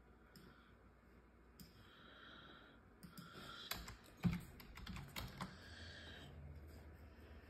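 A quick run of small clicks and taps, with one sharper knock in the middle, over a faint hum.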